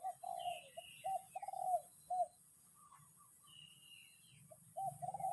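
A dove cooing in a run of short repeated notes, pausing after about two seconds and starting again near the end, with fainter chirps of small birds in between.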